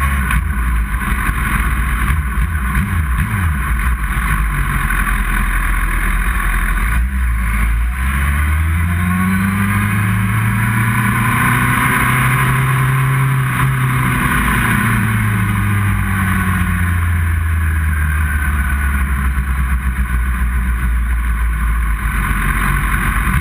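Inline-four sports motorcycle engine running at low paddock speed over a steady low rumble, its pitch rising about eight seconds in and sinking back again by about seventeen seconds.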